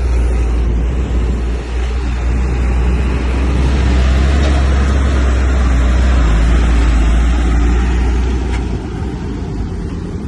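Heavy earthmoving machine's diesel engine running with a deep, steady rumble that grows louder in the middle and eases off near the end.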